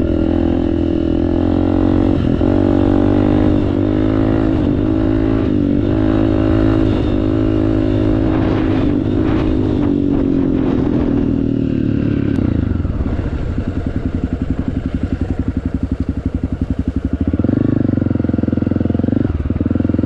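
Honda CRF250F single-cylinder four-stroke engine running through an FMF exhaust under steady throttle. About two-thirds of the way through the rider eases off and it drops to a quieter, pulsing putter at low speed. Near the end it picks up again to a fuller, steady sound.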